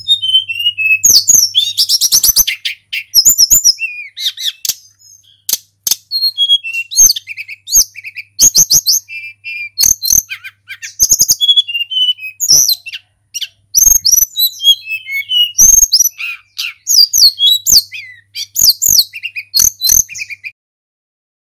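Tledekan gunung, a Cyornis blue flycatcher, singing a rapid, varied run of high whistled phrases, sweeps and trills, broken by sharp clicks, with a brief pause near the end.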